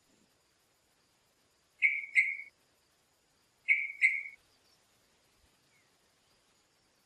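A bird calling in two pairs of short notes: a quick double note about two seconds in, and another about two seconds later. Faint steady high-pitched tones sound underneath.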